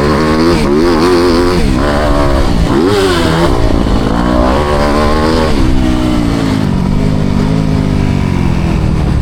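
Four-stroke motocross bike engine on the track, revving up and down over and over as the throttle is opened and closed, with the pitch swinging every second or so.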